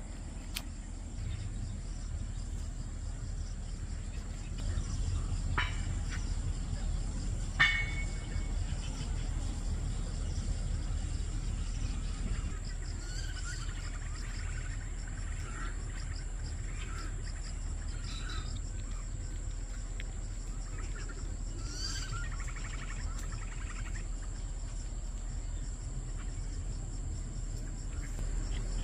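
Outdoor ambience of birds chirping off and on, busiest in the second half, over a steady high-pitched hiss and a low rumble. A sharp chirp about eight seconds in is the loudest moment.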